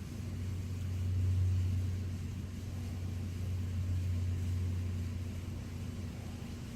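Low, steady engine hum of a nearby motor vehicle, swelling about a second in and then easing off slightly.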